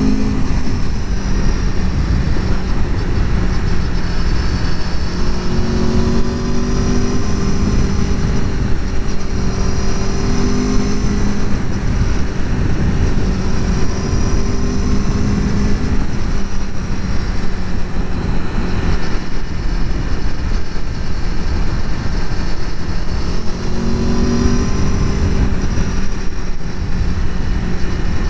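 2021 Aprilia Tuono V4 Factory's V4 engine through its stock exhaust under way, the revs rising and falling as it accelerates and eases off, over a steady rush of wind noise.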